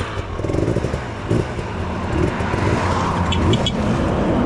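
Enduro motorcycle engine running steadily under a rough noisy haze. About three seconds in come three short high chirps.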